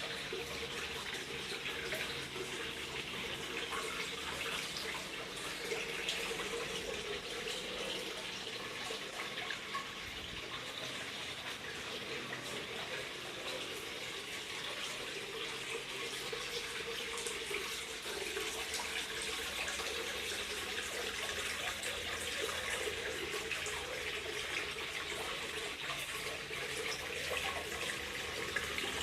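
Water pouring down a waterwall and splashing steadily into a fish pond below.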